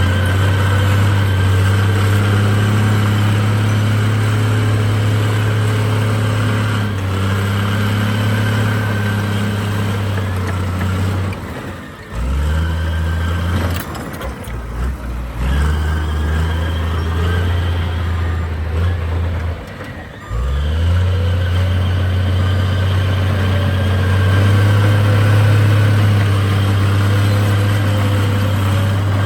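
Heavy diesel engine of earthmoving machinery running steadily, dropping off briefly twice, about twelve and twenty seconds in, and picking back up each time.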